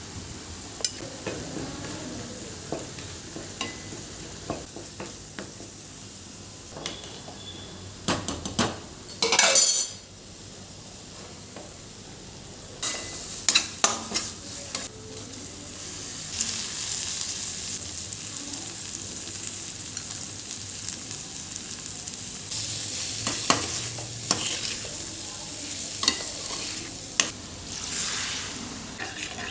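Cooking at the stove: a spoon stirring and scraping in a pan amid frying sizzle, with scattered clinks of utensils and pans. There is a louder burst of clatter about a third of the way through, and the sizzle grows stronger in the second half.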